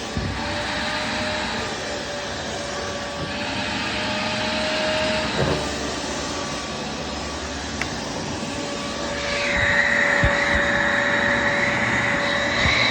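Vacuum cleaner running with a steady rushing noise and a faint hum. About two-thirds of the way in, a higher-pitched whine comes in and holds, with a few light knocks.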